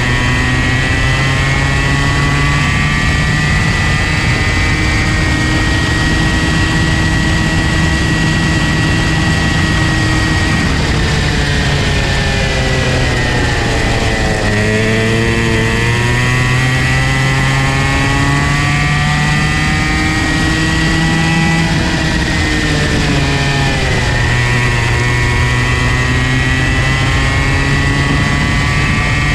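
Comer C50 two-stroke go-kart engine running at high revs. Its pitch falls steeply about halfway through as it slows, climbs back up, then dips again briefly about three-quarters of the way through.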